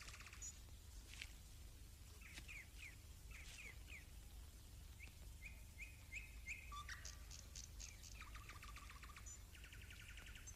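Faint birdsong: short chirps and a run of repeated notes, with buzzy trills at the start and twice near the end, over a steady low hum.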